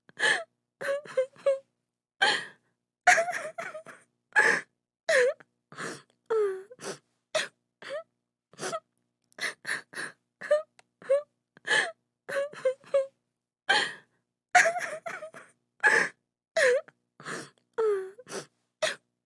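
A woman sobbing and crying, short broken cries and gasping breaths one after another, some cries bending down and back up in pitch.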